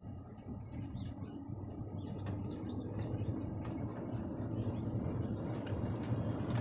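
Scania haul truck's diesel engine running with a steady low drone that slowly grows louder, with faint high squeaks and clicks over it.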